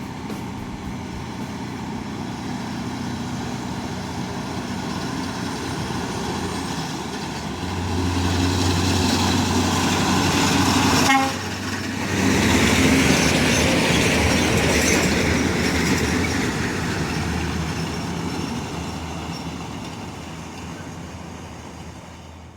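Loaded coal truck passing at high speed: engine and tyre noise grows over several seconds, stays loud with a brief dip about halfway through, then fades away.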